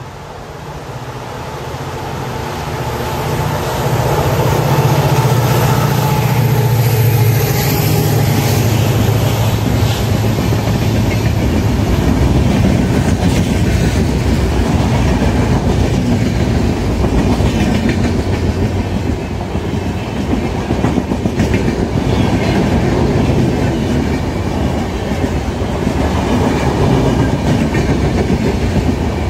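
A train approaching and passing close by at speed. A low drone from the locomotive grows over the first few seconds, then comes a long, steady run of wheels clattering over the rail joints as the coaches go past.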